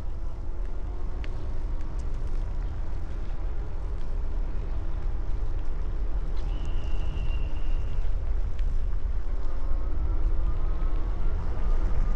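Wind buffeting the microphone during a bicycle ride, heard as a steady low rumble with faint rolling noise. A short, high, steady tone sounds for about a second and a half, starting about six and a half seconds in.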